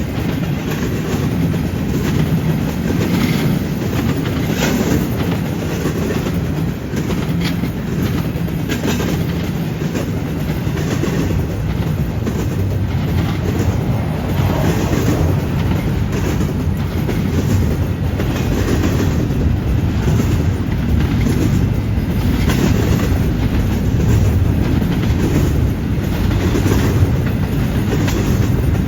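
Cars of a CN intermodal freight train rolling past: a steady rumble of steel wheels on rail, broken by repeated clacks as the wheels cross track joints and the switch.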